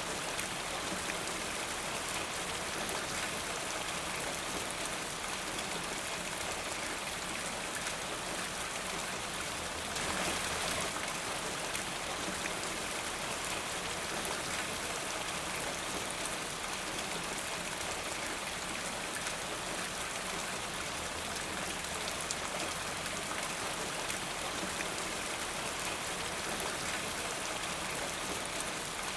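Steady rain falling, a dense even hiss with many fine pattering drops; it swells briefly about ten seconds in.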